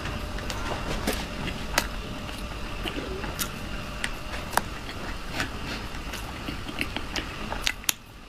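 Close-miked chewing and mouth sounds of eating soft bread: scattered sharp clicks and smacks over a steady low hum and hiss, which drops away near the end.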